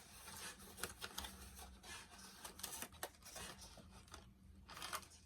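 Faint clicks and short rustles of small plastic doll accessories and their packaging being handled and taken out of the box, with a slightly longer rustle near the end.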